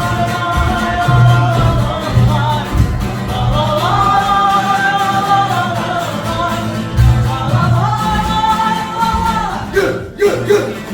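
A song: a voice singing long held notes over instrumental backing with a pulsing bass line.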